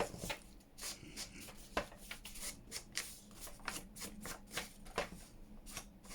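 Ink being rubbed onto the edges of paper: short scratchy swipes of an ink applicator against the paper, about two to three a second, at an uneven pace.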